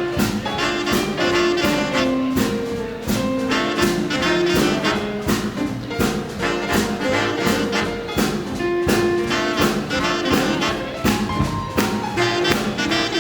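Live swing big band playing a boogie-woogie tune: trumpets, trombones and saxophones playing held and punched phrases over a steady drum beat.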